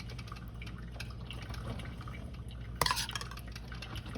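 Liquid dripping in the kitchen over a steady low hum, with one light clink of kitchenware nearly three seconds in.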